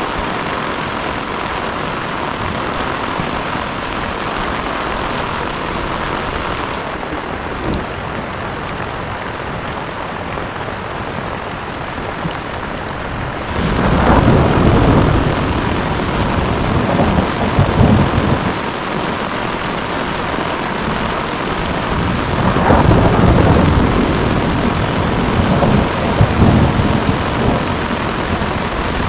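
Heavy rain falling steadily with an even hiss. About halfway in it grows louder, and deep rumbles swell and fade several times.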